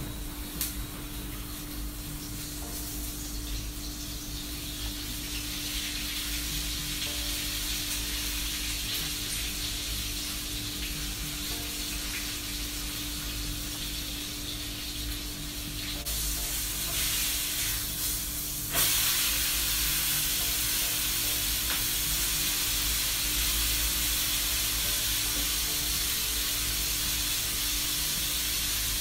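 Flour-coated spiny lobster deep-frying in hot oil in a pan, sizzling steadily; the sizzle grows and then jumps louder suddenly about two-thirds of the way through. A steady low hum runs underneath.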